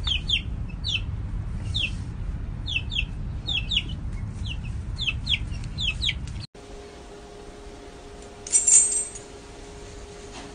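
A baby bird chirping repeatedly in short, falling peeps, two or three a second, over a low rumble. After a cut about six and a half seconds in, a steady hum takes over, and a brief high-pitched squeak near the nine-second mark is the loudest moment.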